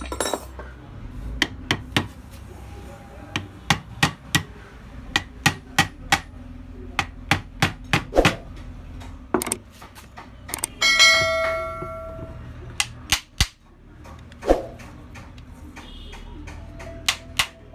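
Irregular hammer taps on metal, seating a rewound stator coil into an alternator housing. One strike about eleven seconds in rings out like a bell for a second or so.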